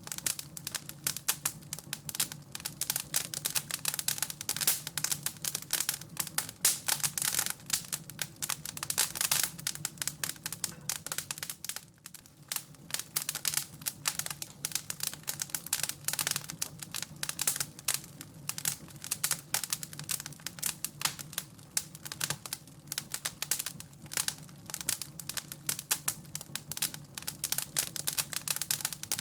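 Wood fire crackling in a fireplace: a dense, irregular run of small pops and snaps over a low steady rumble, easing briefly partway through.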